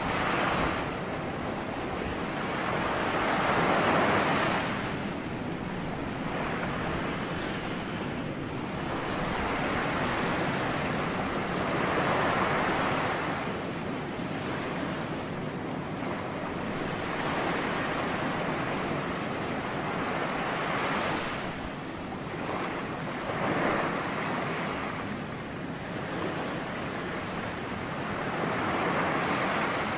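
Ocean waves breaking on a shore: a steady rushing surf that swells and falls back every few seconds.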